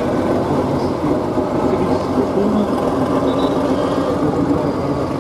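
Heavy vehicle engine running, a steady rumbling noise with no clear change in pitch or level.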